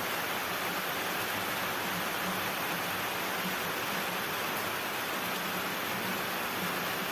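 Steady rainfall: an even, unbroken hiss of rain with no distinct drops or thunder.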